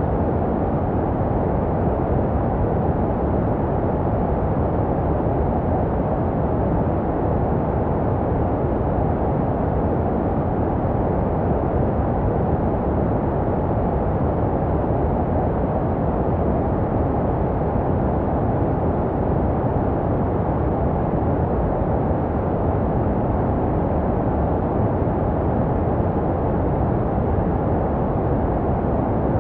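Continuous baby-sleep white noise: a steady, unbroken, muffled hiss with most of its weight low, meant to resemble the sounds a baby hears in the womb.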